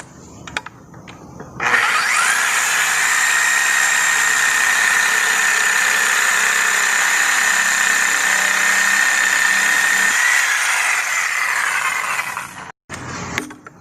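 Reciprocating saw (Sawzall) running as it cuts through the pool pump's plumbing pipe: a steady high whine that starts about two seconds in, lasts about ten seconds, dips slightly in pitch near the end and then stops.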